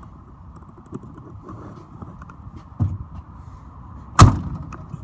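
Truck cab door slammed shut, a single loud bang about four seconds in, after a lighter thump a little more than a second before it.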